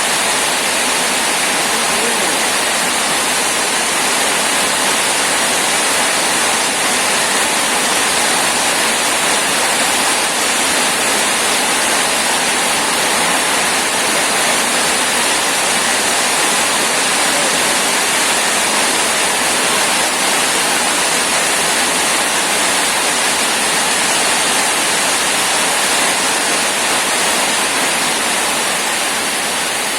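Heavy rain falling steadily: a loud, even, unbroken hiss of downpour.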